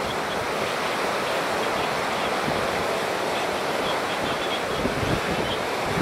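Typhoon-swollen flood river rushing steadily past, with wind buffeting the microphone and gusting harder near the end.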